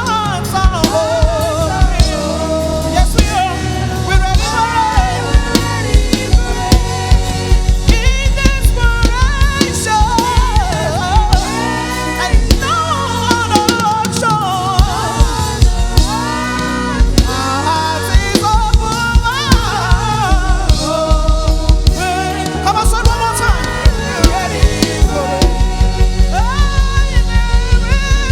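Live gospel music: a band with drum kit keeping a steady beat under a melody line that slides and bends in long runs, without sung words.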